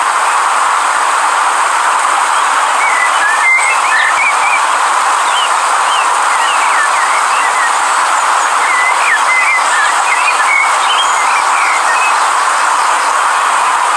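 A river rushing steadily, with small birds chirping in short, quick notes over it, the chirps becoming frequent about three seconds in.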